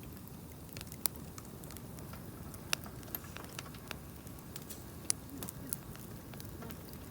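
Wood campfire crackling, with a few irregular sharp pops over a low, steady background.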